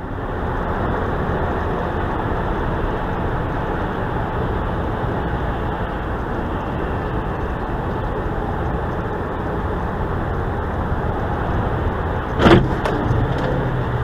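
Steady road and engine noise from a moving car picked up by a dashcam, with one sudden loud bang about twelve seconds in and a few smaller knocks after it, typical of a collision.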